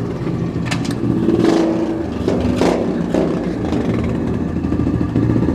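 SSR pit bike's small single-cylinder engine running steadily at low revs inside a concrete water culvert, sounding throaty and echoing.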